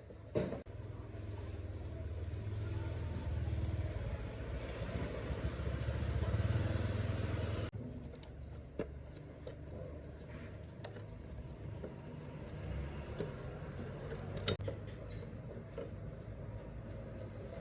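A low motor or engine sound runs for about seven seconds, growing louder, then cuts off suddenly. After it comes a quieter background with a few sharp clicks.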